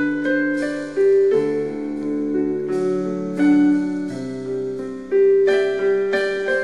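Piano playing an instrumental interlude: several chords struck one after another, each left to ring.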